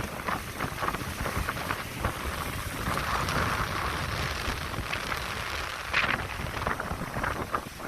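Wind buffeting the microphone over the wash of waves breaking on the shore, with a louder surge of surf about six seconds in.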